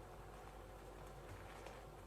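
Near silence: faint room tone with a low steady hum and a few soft ticks.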